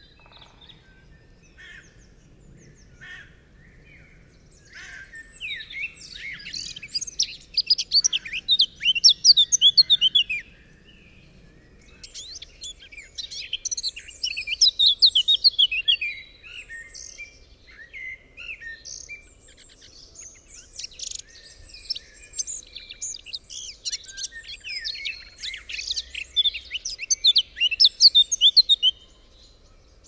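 Birds singing in dense bouts of rapid, high chirps and twitters, rising out of faint background noise about five seconds in, pausing briefly near ten and sixteen seconds, then singing on until just before the end.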